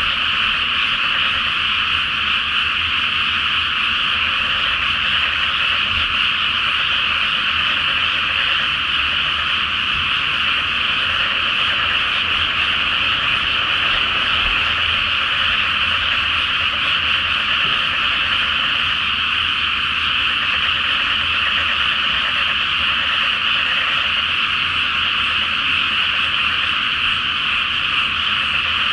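A dense chorus of many frogs calling together from a flooded rice paddy, a steady, unbroken wall of high croaking with no let-up. A faint low rumble runs underneath.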